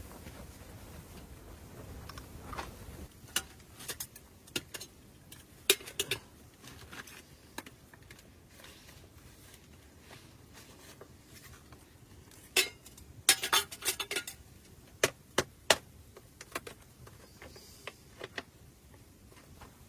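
Irregular clinks and knocks of small hard objects being handled, with a busier run of them about two-thirds of the way through.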